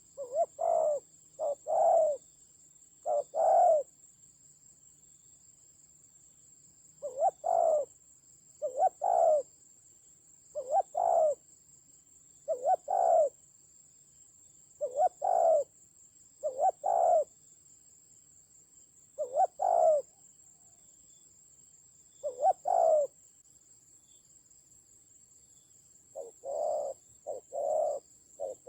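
Spotted doves cooing: low, repeated two- and three-note phrases every second or two, with a pause of a few seconds after the first few. A steady faint high-pitched whine runs underneath.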